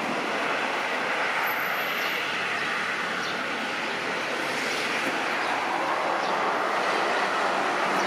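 Jet noise from an approaching Boeing 737-800 airliner: its CFM56 turbofans make a steady rushing roar that grows slightly louder toward the end.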